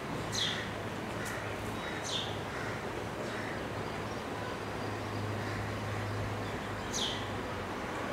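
A bird gives three short, high chirps, each sweeping sharply down in pitch, spread out with long gaps, over a steady low hum and constant background noise.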